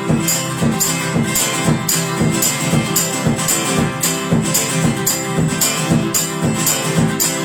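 Guitar strumming in a steady rhythm, with sharp strokes about twice a second: an instrumental passage of a song, with no singing.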